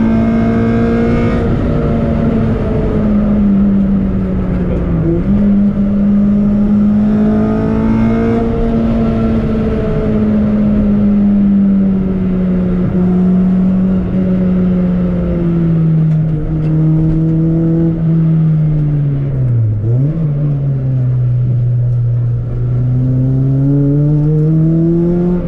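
Toyota Corolla T-Sport's engine heard from inside the car while driving, its pitch easing slowly lower, then dropping sharply about twenty seconds in and climbing again as the revs build.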